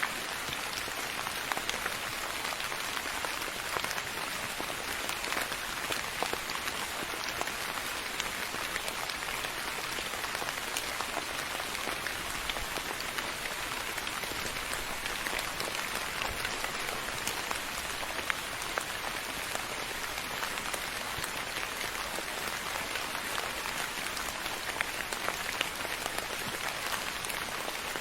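Steady rain falling and pattering on a surface, a dense even hiss dotted with small individual drop ticks.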